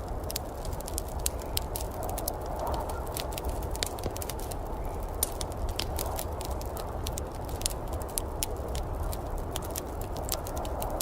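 Wood fire crackling in a fireplace: frequent, irregular sharp pops and snaps over a steady low background rush.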